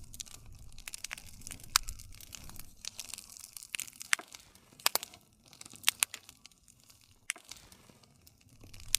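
Wood fire crackling, with sharp, irregular pops and snaps scattered through, over a low rumble that is strongest in the first couple of seconds and again near the end.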